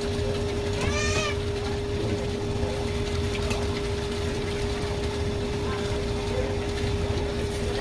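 A steady mechanical hum over a low rumble, like a pump or refrigeration unit running. About a second in there is one short, high, voice-like call.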